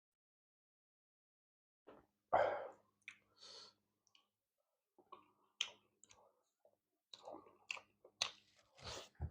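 Close-up mouth eating sounds: wet chewing, lip smacks and clicks while eating fish curry with rice. They come in irregular short bursts after about two seconds of near silence.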